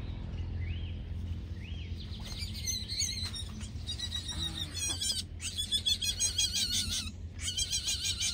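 Birds chirping: a few rising-and-falling calls at first, then a dense run of fast, high chirps from about two seconds in, over a steady low hum.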